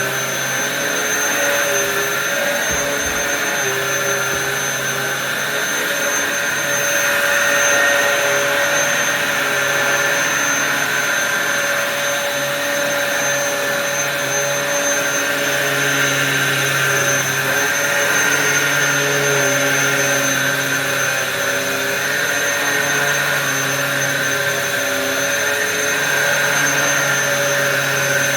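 Dyson DC07 bagless cyclonic upright vacuum cleaner running steadily on carpet, with a high motor whine over the rush of airflow. A lower hum swells and fades every few seconds.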